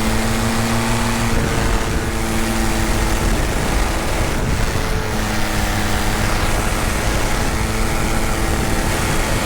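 Tandem paramotor engine and propeller running steadily in flight, with a loud rushing noise underneath. The engine note thins out briefly around the middle and then comes back.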